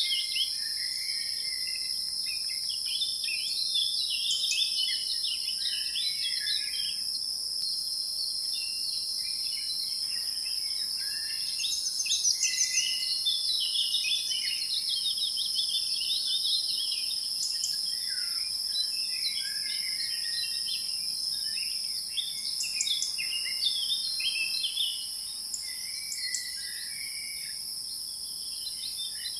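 A chorus of many small birds chirping and warbling, over a steady high-pitched insect drone like crickets or cicadas.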